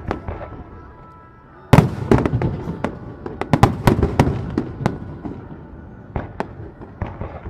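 Aerial fireworks display: after a short lull a loud shell burst about two seconds in sets off a rapid barrage of sharp bangs and crackles that thins out over the next few seconds, leaving a few scattered bangs near the end.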